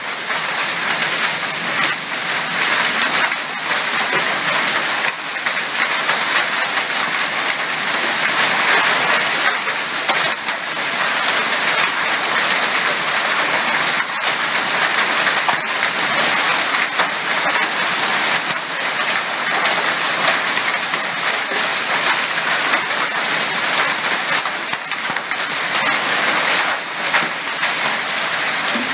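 Heavy downpour in a thunderstorm: a dense, steady rain hiss, with a few sharper taps of drops striking hard surfaces.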